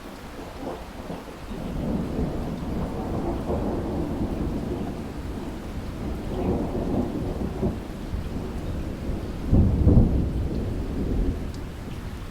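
Thunder rumbling over steady rain: a long low roll that builds about a second in, swells to its loudest near three-quarters of the way through, then eases off.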